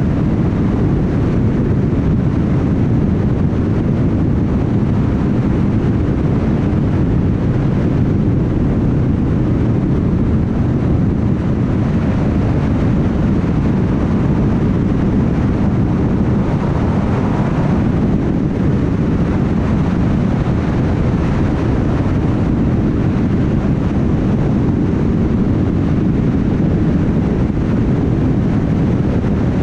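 Car travelling at highway speed: a steady low rumble of road and tyre noise with engine drone.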